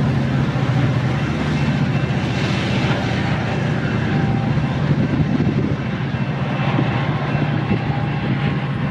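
Diesel-hauled train passing close by: a steady, loud rumble from the locomotive and wheels rolling on the rails.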